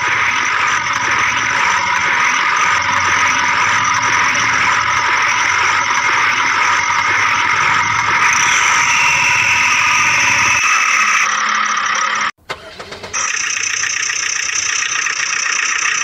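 A motor or engine running steadily. It changes character twice and breaks off briefly about twelve seconds in, then resumes.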